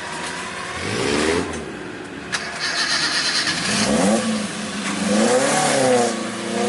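Off-road jeep engine revving hard under load in deep mud, its pitch rising and falling repeatedly in the second half.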